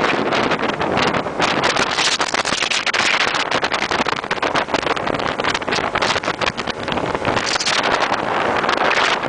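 Wind buffeting the microphone aboard a moving motorboat: a loud, steady rush with constant irregular gusts, and the boat's running noise beneath it.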